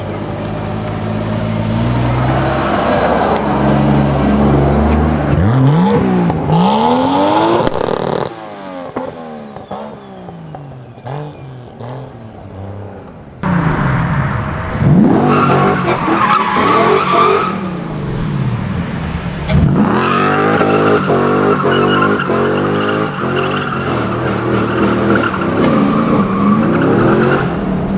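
Modified Nissan Silvia engine revving up and down hard with tyres squealing while drifting, across several short clips that change abruptly, with a quieter stretch in the middle.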